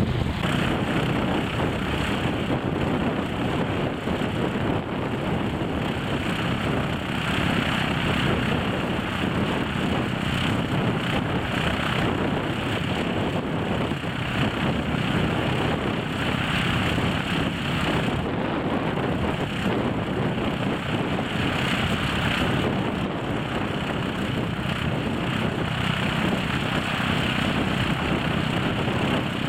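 Propeller aircraft engine running steadily.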